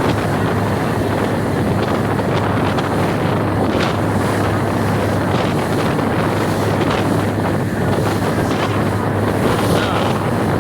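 Motorboat running at steady speed: a constant low engine drone under heavy wind buffeting on the microphone and water rushing past the hull.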